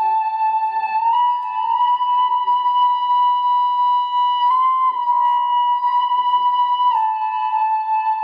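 Eastwood Airline H44 electric guitar sustained by an EBow, through overdrive and delay, holding long singing notes. The pitch steps up about a second in and steps back down near the end.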